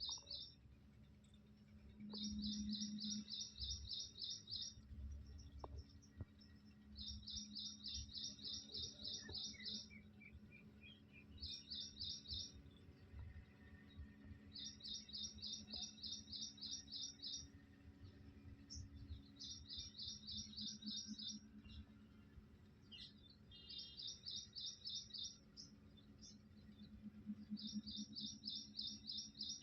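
A bird chirping in fast, even trills of repeated high notes, each trill lasting one to three seconds and coming back every few seconds, under a faint steady low hum.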